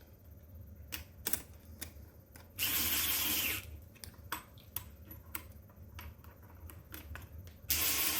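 Bolts on a valve assembly being loosely run down: light metal clicks and taps of tools and parts, with two loud bursts of noise lasting about a second each, one about three seconds in and one near the end.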